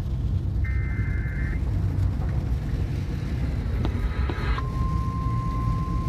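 Car pulling away with steady engine and road rumble, while a weather alert radio sounds: a short burst of data tones about a second in, another near four seconds, then a steady single-pitch alarm tone from about four and a half seconds on, the alert that precedes a spoken tornado warning.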